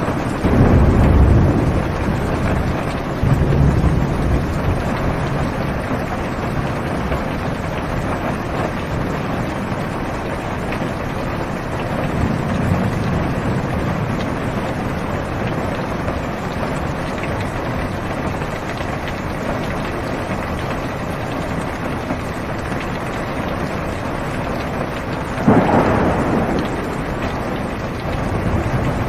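Steady heavy rain falling on a car, heard from inside the cabin, with low rolls of thunder about a second in and again a few seconds later, and a louder, sharper thunderclap near the end.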